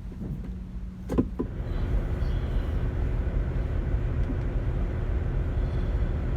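A semi truck's engine rumbling steadily, heard from inside the cab. There is a sharp knock about a second in, and after it the rumble is louder.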